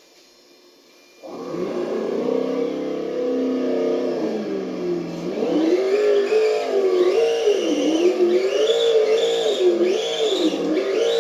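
ESS-ONE+ engine sound system on a Tamiya CC-02 RC crawler playing a simulated car engine through its speaker. It starts about a second in, idles steadily, then from about halfway rises and falls in pitch about once a second as the throttle is worked through donut turns, with a higher whine rising alongside each rev.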